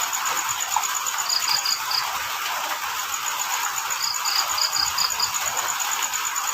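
Crickets chirping over a steady hiss of rain. One cricket keeps up rapid, even pulses that break off briefly mid-way, and a lower-pitched cricket twice gives short runs of four to six chirps.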